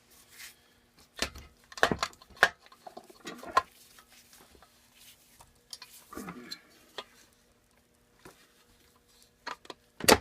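Metal small-engine parts and tools clinking and clacking as they are handled, in scattered sharp knocks. The loudest knock comes near the end, and a faint steady hum runs underneath.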